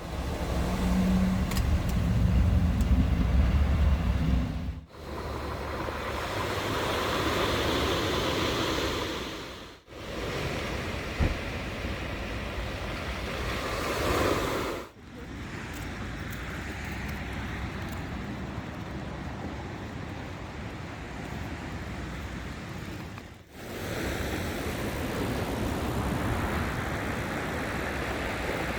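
Seaside outdoor ambience: a steady rush of surf and wind, broken by four abrupt cuts into shorter clips. The first clip carries a heavy low rumble.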